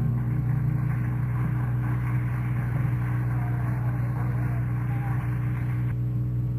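Steady electrical hum from stage amplifiers on an old live tape, with a faint wash of audience noise under it between songs.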